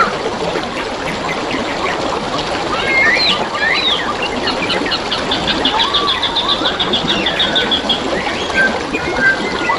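Flowing water trickling steadily, with wild birds calling over it: swooping whistled calls about three seconds in, then a fast high trill lasting about three seconds, along with lower whistles.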